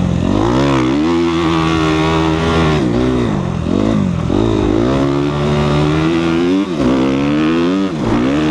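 2014 Suzuki RM-Z250's single-cylinder four-stroke motocross engine running under hard throttle, its pitch climbing and dropping again and again as the throttle is opened and chopped.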